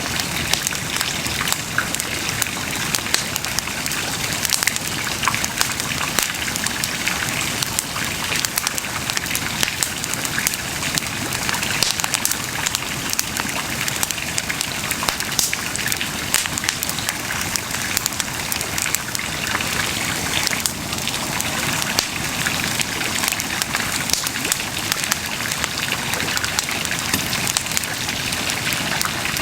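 Wood bonfire burning, crackling steadily with many small sharp pops over a constant hiss.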